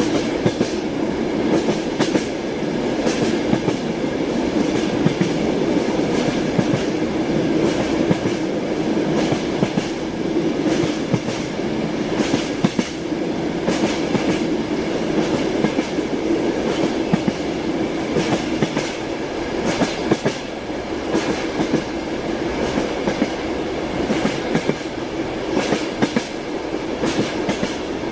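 Passenger train heard from inside a carriage: a steady rumble of the running train with frequent sharp clicks of the wheels over rail joints, the clickety-clack of the wheels.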